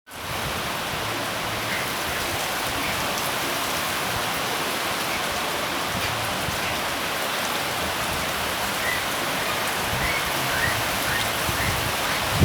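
Steady rain falling, a constant even hiss of raindrops on surfaces.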